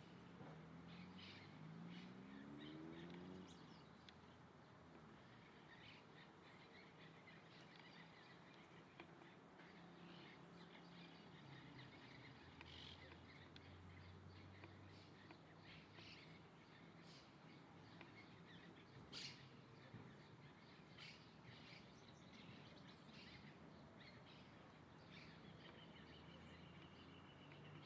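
Faint wild birdsong: scattered short chirps and calls, with a thin, steady high note near the end, over a low background hum.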